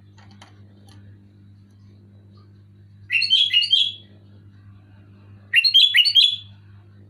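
Sooty-headed bulbul (kutilang) singing two short, loud phrases of quick rising whistled notes, the first about three seconds in and the second near six seconds. A steady low hum runs underneath.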